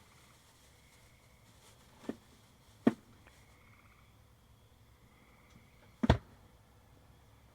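Three sharp knocks of hard objects: a light one about two seconds in, a sharper one just before three seconds, and the loudest, a quick double knock, about six seconds in. Underneath is a faint, steady, high trill.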